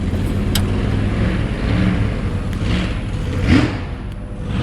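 Vehicle engine idling steadily at a raised idle, with a sharp click about half a second in and a brief rising squeak about three and a half seconds in.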